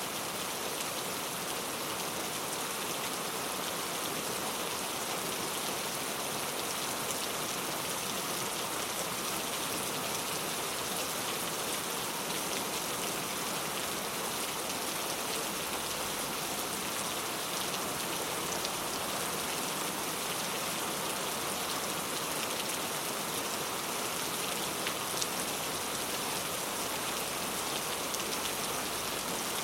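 Steady rain: an even, unbroken hiss of falling drops with a few faint individual drop ticks, and no thunder.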